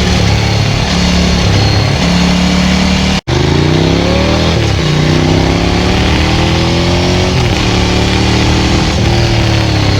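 Ducati 900SL's air-cooled L-twin through a Termignoni full exhaust, under way. It holds a steady note, cuts out for an instant about three seconds in, then the revs climb, drop sharply at an upshift, climb again and fall back off.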